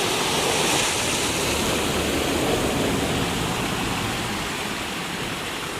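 Steady rushing of a rain-swelled creek's running water, easing a little toward the end.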